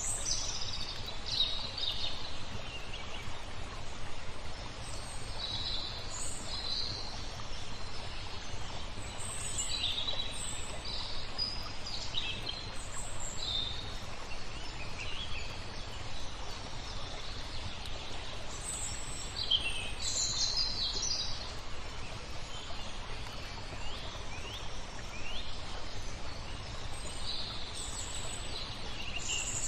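Birds chirping and calling in short bursts, again and again, over a steady background wash of noise.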